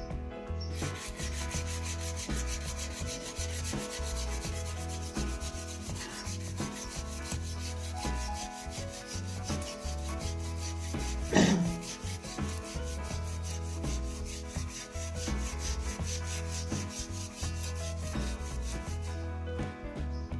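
Rapid back-and-forth hand sanding of a new wooden snooker cue shaft with fine 0-grade sandpaper lined inside a pipe, rubbing it down to taper and round it. The sanding stops shortly before the end. About halfway through there is one brief, loud squeal that glides downward.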